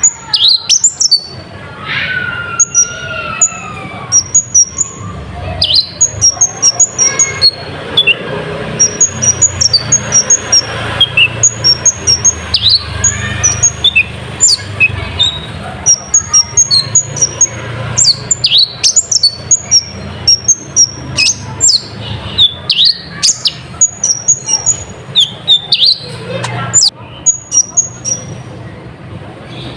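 Kolibri ninja sunbird song on a bird-training track: rapid runs of short, very high, thin chirps and sharp falling notes, repeated throughout. About two seconds in come lower, wavering gliding whistles, over a steady low hum.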